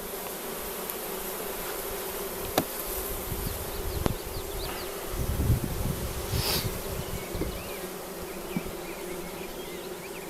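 Honeybees buzzing around an open hive, a steady hum that fills the whole stretch, with a couple of light sharp clicks about a third of the way in.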